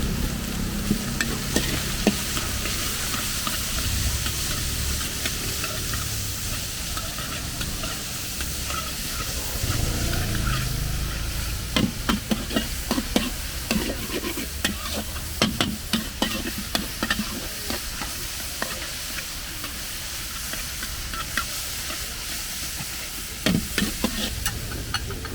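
Food sizzling in a hot wok as it is stir-fried, with a metal spatula clanking and scraping against the wok in quick clusters partway through and again near the end.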